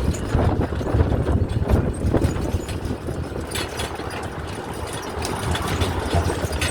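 Miniature park train running along its track, heard from aboard: a steady low rumble with scattered clacks.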